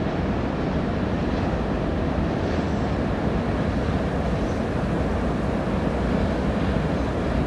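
Steady low rumble of a Norfolk Southern freight train of loaded steel-coil cars rolling across a high steel truss railroad bridge.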